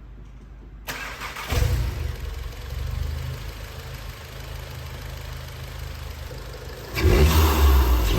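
VW Golf GTI Performance's turbocharged four-cylinder starting through a one-off custom exhaust. It catches about a second and a half in with a brief flare, settles into a steady idle, then is revved near the end.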